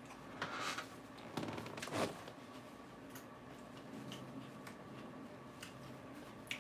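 Crisp lettuce being bitten and chewed close to the microphone: two louder crunches in the first two seconds, then faint chewing with small clicks.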